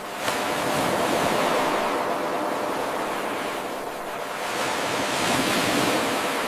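Ocean surf washing in and drawing back in slow swells, a looped wave recording with a faint click where the 8-second loop restarts, about a third of a second in.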